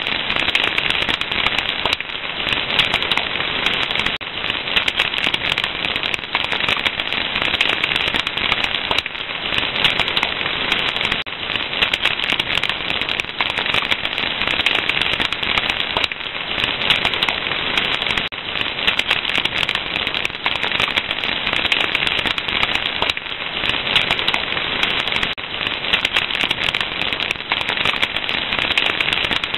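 Fire crackling steadily, a dense stream of small pops over a soft hiss.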